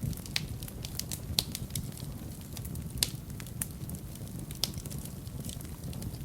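Wood fire burning in a fireplace: a steady low rush of flame with irregular sharp crackles and pops, a few louder snaps among them.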